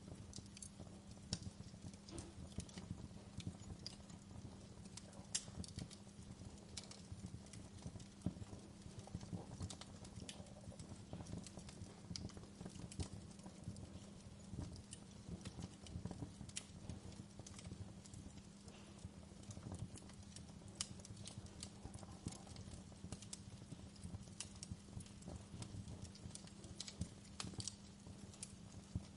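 Wood fire crackling in a fireplace: irregular snaps and pops, a few louder than the rest, over a low steady hum.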